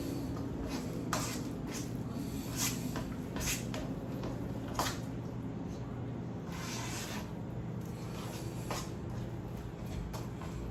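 Kitchen handling sounds: scattered light knocks and clicks, with a short rustle a little past the middle, over a steady low hum.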